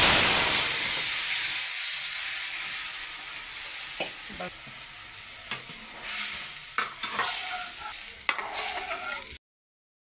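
Watery raw-mango pulp poured into hot tempering oil in a metal kadhai, hissing loudly at once and dying down over several seconds. A ladle knocks against the pan a few times as the mixture is stirred. The sound cuts off suddenly near the end.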